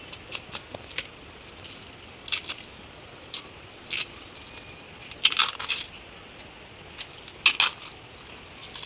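Footsteps crunching through dry leaf litter and twigs, an irregular series of short crunches and snaps, the loudest about halfway through and near the end.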